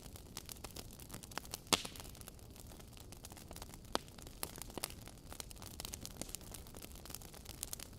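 Wood fire in a fireplace crackling and popping: logs burning with a low steady hiss and irregular sharp pops, the loudest about 1.7 s and 4 s in.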